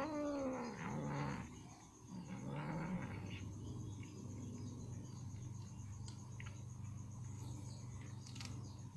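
Ginger cat crying out with a long call falling in pitch, then a shorter rising cry about two seconds in, followed by a low steady growl that runs on.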